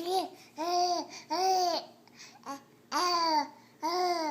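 A voice making a run of short calls, about five, each rising then falling in pitch and coming roughly once a second.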